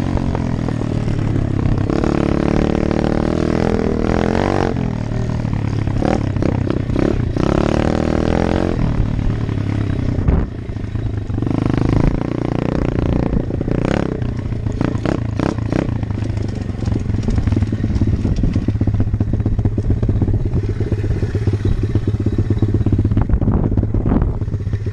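125 cc Apollo dirt bike's single-cylinder four-stroke engine running on a ride, its revs rising and falling through the first half. A run of clattering knocks comes around the middle, and the engine settles to a steadier note near the end.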